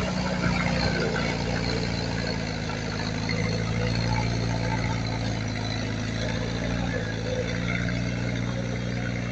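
Diesel engine of heavy earthmoving equipment running steadily with a low, even drone.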